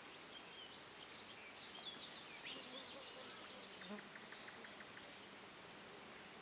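Faint birdsong: thin high chirps and warbles over the first few seconds, then a short run of about ten quick ticks around four seconds in.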